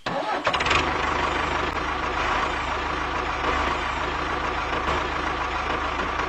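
Tractor diesel engine running steadily with an even low throb, starting abruptly.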